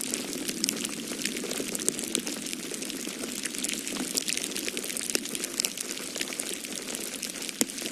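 Wood fire crackling in a fireplace: a dense, steady run of small pops and snaps over a continuous low rushing noise, with a slightly sharper snap near the end.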